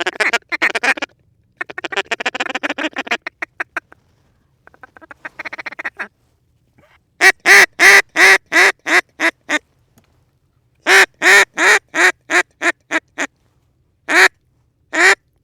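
A hand-blown duck call sounding to ducks flying overhead. It starts with quick bursts of rapid chatter, then gives two long series of loud, evenly spaced quacks, about three or four a second, and two single quacks near the end.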